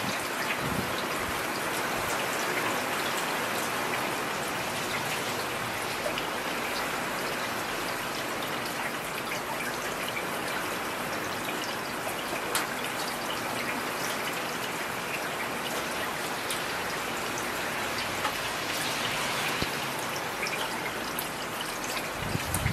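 Heavy rain falling steadily in a downpour, a dense hiss with many separate drop hits scattered through it. A low rumble rises near the end.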